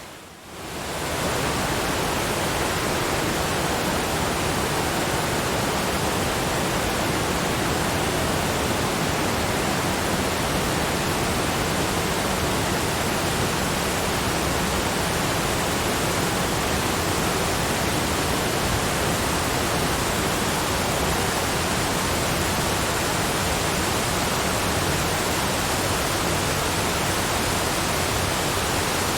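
Steady, even rush of a waterfall's falling water. The sound dips briefly right at the start and swells back within about a second.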